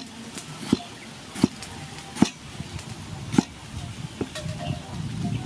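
Kitchen knife chopping tomato on a cutting board: sharp knocks roughly once every second, six in all, a little further apart towards the end.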